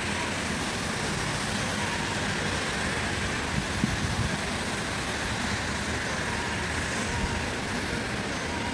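Steady traffic and street noise, with a few faint knocks about four seconds in.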